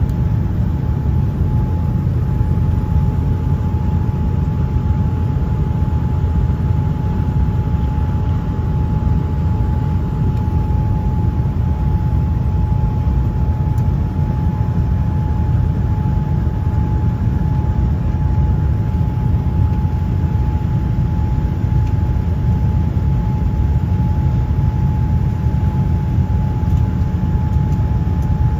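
Airliner cabin noise in flight: a steady low rumble of engines and airflow with a constant thin whine running through it.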